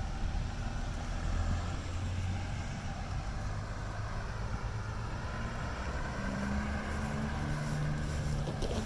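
Steady low rumble of a moving Amtrak train, with faint low held tones joining in for the last few seconds.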